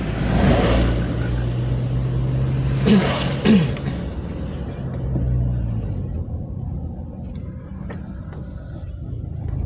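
Ambulance engine running and road noise heard from inside the cabin while driving: a steady low hum with a swell about half a second in and two brief louder sounds about three seconds in.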